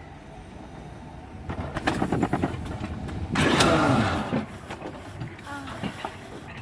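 Mountain coaster car being hauled up the lift hill by its cable: a rapid run of clattering clacks starts about a second and a half in, with a louder falling screech near the middle.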